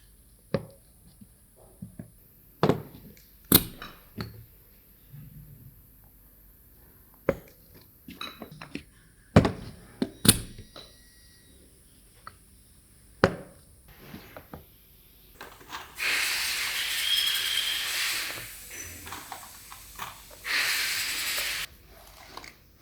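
Metal parts of truck air brake relay valves clinking and knocking in a scatter of sharp hits, then two hisses of compressed air near the end, the first a few seconds long and the second about a second long.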